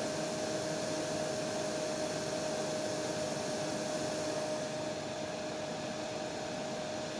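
Hair dryer running steadily: an even rush of air with a steady motor whine. It turns slightly quieter and duller about two-thirds of the way through.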